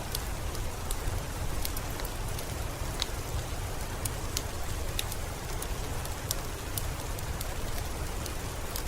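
Steady rain with a crackling wood fire: a constant hiss and low rumble, broken by many short, sharp, irregular crackles.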